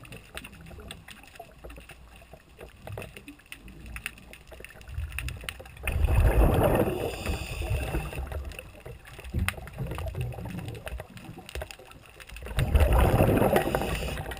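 Rushing noise of water and wind around a small boat, swelling loudly twice: about six seconds in and again near the end.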